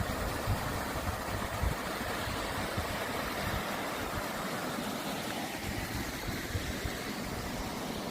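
A vehicle's engine running steadily at low speed, with an even hiss over it and uneven low rumbling.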